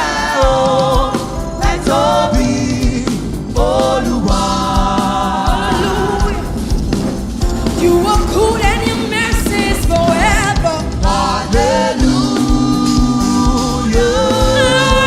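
Gospel worship music: singers with backing vocals over a band with a steady beat.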